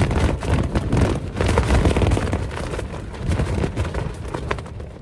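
Strong gusting wind battering a tent, the fabric flapping and rattling in quick slaps, with heavy wind noise on the microphone.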